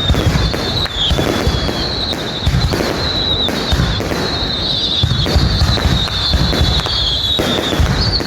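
Dense, continuous fireworks barrage: rapid low booms and crackling with no break, and a high wavering whistle over them.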